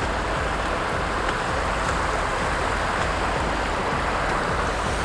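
Steady rush of flowing water in a warm hot-spring stream.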